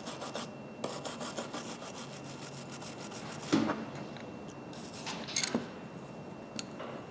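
Brass wire brush scrubbed back and forth in quick strokes over the teeth of steel grooved pliers, with a short break just under a second in. The scrubbing stops about three and a half seconds in, followed by a few light knocks and clicks.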